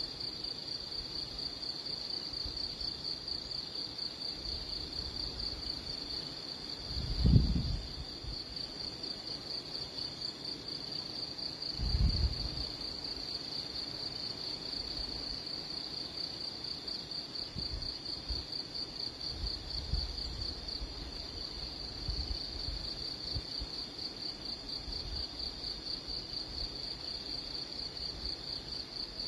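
A continuous high, rapidly pulsing insect trill, like a cricket's, with two low bumps about seven and twelve seconds in.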